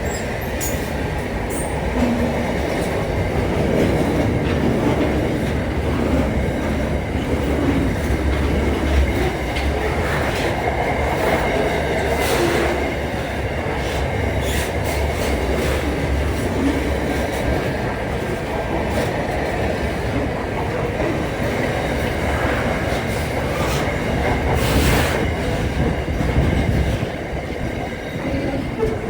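A train running on the rails: a steady rumble with wheel noise and occasional sharp clacks, the deep rumble dropping away near the end.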